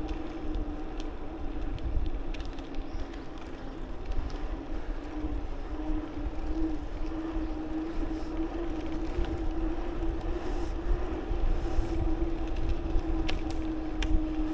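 Riding noise from a moving bicycle: wind rumbling on the microphone over a steady, constant hum, with a few faint ticks.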